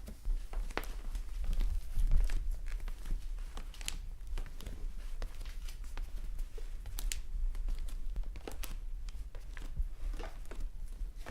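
Tweezers picking and pulling wet, sticky earwax out of a silicone ear model right at the microphone: a run of small irregular clicks and sticky crackles over a low handling rumble, the rumble loudest about two seconds in.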